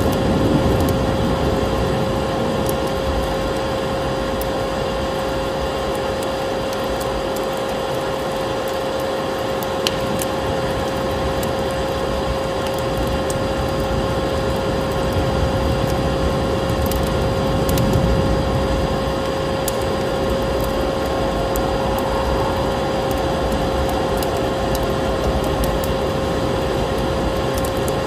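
Steady drone of an electric vacuum cleaner: a constant motor hum over rushing air. Scattered small crackles and pops of a wood fire are mixed in.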